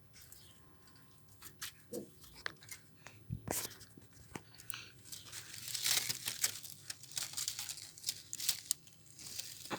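Rustling and crinkling with many scattered sharp clicks, densest a little past the middle.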